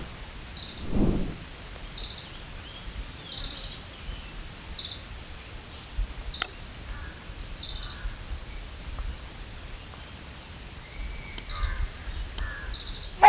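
Ultramarine flycatcher calling: a short high note followed by a brief buzzy trill, repeated about every second and a half over a steady background hiss.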